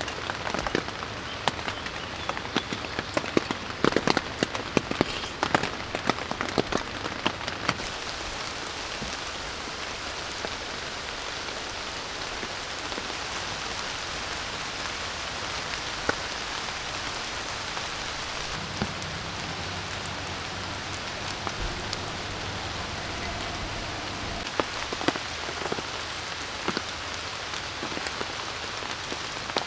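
Steady rain falling on a tent and the surrounding forest, an even hiss. In roughly the first eight seconds it is dotted with many sharp taps, which thin out to a few after that.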